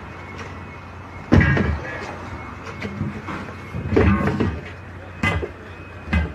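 Short bursts of a person's voice, words not made out, over a steady low hum and background noise.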